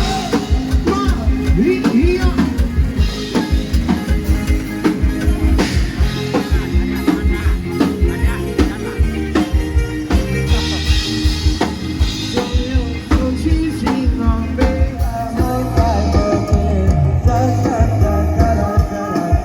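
Loud live band music from a Thai procession band: a steady, heavy drum beat with bass and guitar under a singing voice.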